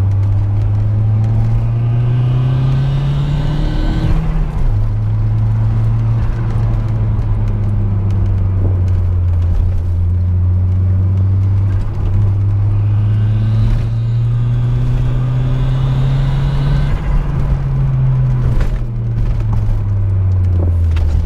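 Audi B5's turbocharged engine pulling through the gears, heard from inside the cabin. The engine note rises with a turbo spool whistle climbing over it, drops at a gear change about four seconds in, then rises with the whistle again from about twelve to seventeen seconds before easing off.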